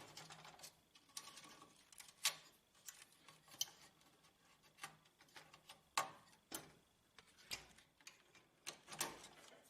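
Scattered light clicks and taps from handling the plastic parts and cable connectors of an HP LaserJet laser printer while its fuser cables are plugged back in. The loudest knocks come about two seconds in and again about six seconds in.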